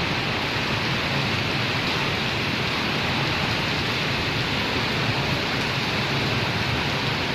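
Heavy tropical downpour: a steady, dense rain noise with no let-up.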